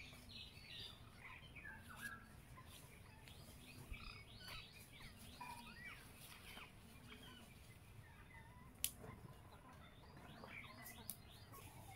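Faint, busy chirping of small birds, with one sharp click about nine seconds in.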